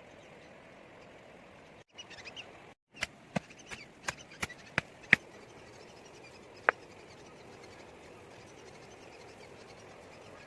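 Steady outdoor background noise, with a few faint chirps about two seconds in, then a quick run of sharp knocks, about seven in two seconds, and one more a little later.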